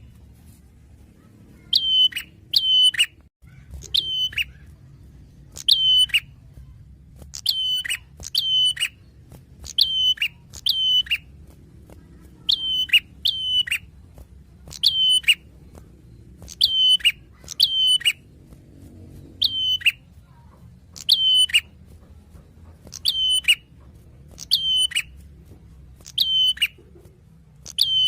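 Prinia (prenjak) calling: short, sharp, high chirps repeated every second or two, often in quick pairs.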